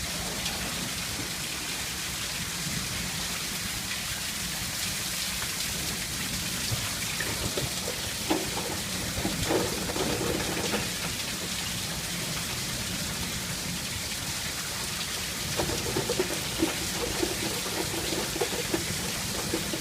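Heavy monsoon rain falling steadily.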